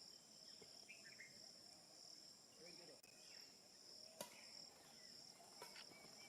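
Faint, steady high-pitched insect trill running on without a break, with a single sharp click about four seconds in.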